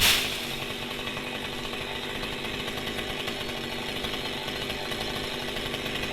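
Chainsaw running at a steady high speed, peaking sharply at the start and then holding an even pitch.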